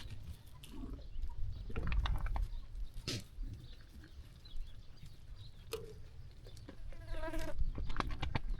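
Sheep bleating: a short call near six seconds in, then a longer, wavering bleat a little after seven seconds. Scattered clicks and knocks and a low rumble sit under the calls.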